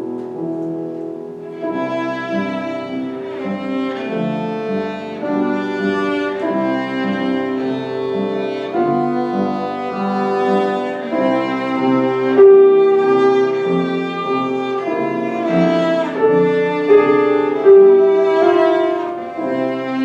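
A bowed string instrument playing a classical piece live with piano accompaniment: a flowing melody of changing notes, with a longer held note about two-thirds of the way through.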